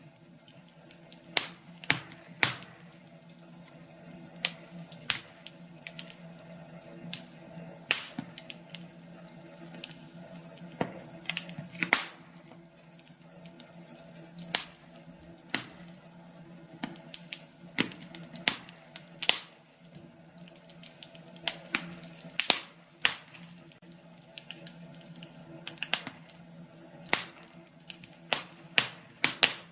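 Wood fire in a fireplace crackling: irregular sharp pops, sometimes several in quick succession, over a steady low rush of burning.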